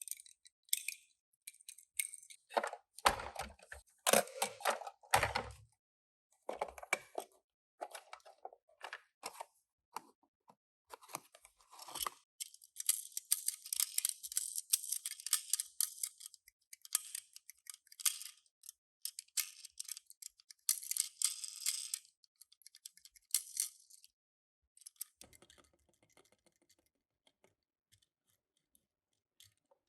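Toy packaging being handled and opened: clicks and knocks, then a long stretch of crinkling and tearing, thinning to a few faint clicks near the end.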